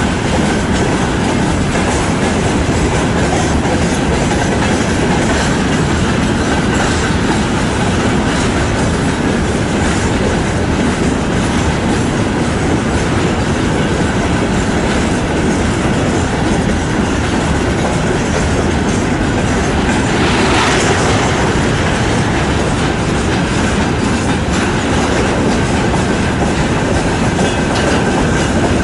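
Freight train wagons (tank cars, covered hoppers and boxcars) rolling past at steady speed, wheels clattering over the rail joints in a continuous loud rumble. About two-thirds of the way through there is a brief, sharper burst of higher-pitched noise.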